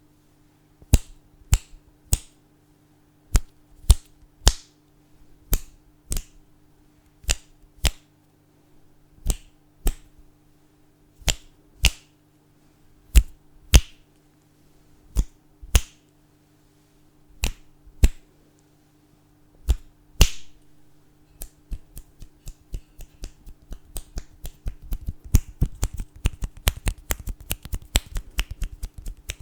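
Fingers snapping crisply, one sharp snap about every half second to a second. About two-thirds of the way through they give way to a fast, dense run of quieter clicks, many to the second.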